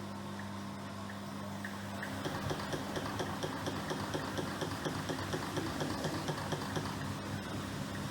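Miele PW6065 Plus washing machine running mid-cycle: a steady motor hum, joined about two seconds in by a rhythmic patter of about three to four beats a second as the drum turns the wash.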